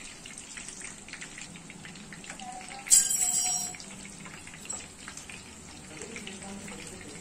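Chicken leg pieces sizzling and crackling as they shallow-fry in oil in a nonstick pan. About three seconds in, a loud metallic clink with a short ring as steel tongs strike metal while the pieces are being turned.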